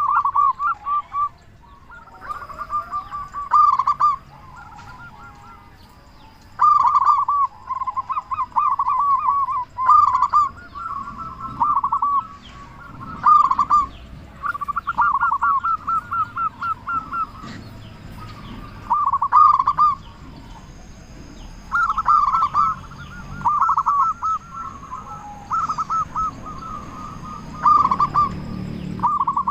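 Zebra dove (perkutut) cooing over and over in short phrases of quick, rolling notes, each phrase about one to two seconds long with brief pauses between. This is the bird's full-voiced song, the kind used to set other perkutut calling.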